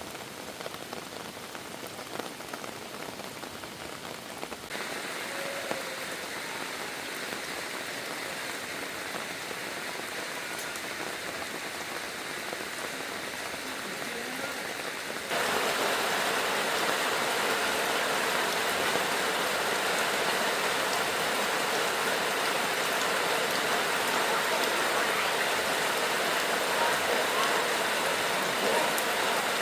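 Heavy rain falling, a steady hiss that jumps louder twice, about five seconds in and again about halfway through.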